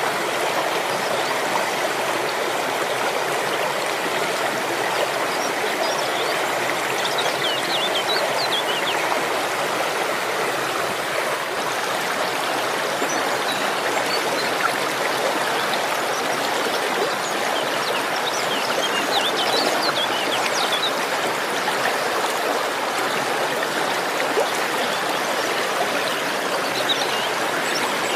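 Waterfall and stream water rushing steadily, an even wash of noise with no breaks.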